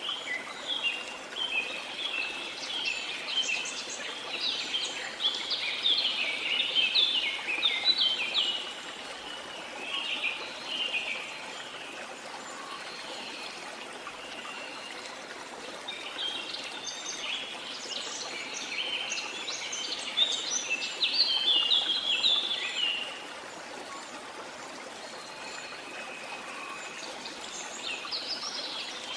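Birdsong in long runs of quick, high chirping notes over a steady bed of running water. The singing comes in two main stretches, for about the first ten seconds and again from about fifteen to twenty-three seconds, with a little more near the end.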